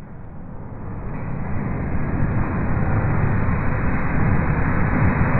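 Fire sound effect processed to sound creepy: a dense, low, rumbling crackle with the highs filtered away, fading in over the first two seconds and then holding steady.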